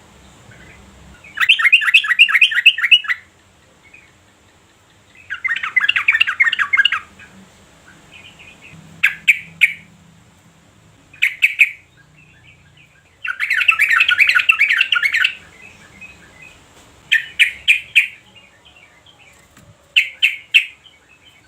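Yellow-vented bulbul calling: three bursts of fast, bubbly chatter about two seconds long, with short phrases of three or four quick sharp notes between them.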